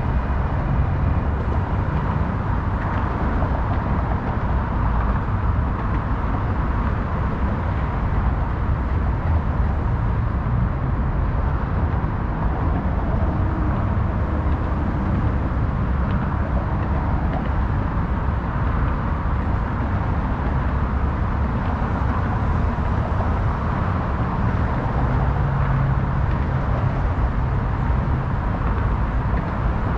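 Steady, unbroken rumble of highway traffic from the FDR Drive, with no single vehicle standing out.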